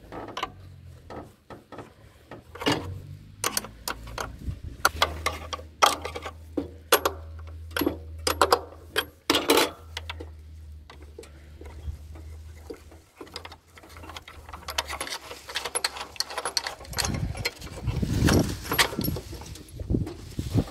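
Irregular metallic clanks, knocks and rattles as a washing machine is dismantled, with a low steady hum through the middle stretch.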